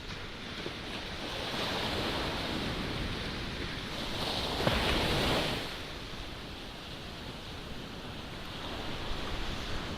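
Ocean surf breaking, with strong wind buffeting the microphone. A wave's crash swells to its loudest about halfway through, then washes out.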